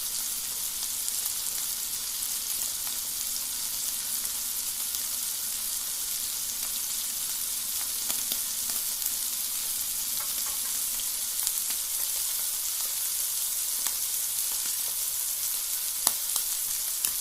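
Onion sizzling over a wood fire: a steady hiss with scattered sharp pops, the loudest near the end.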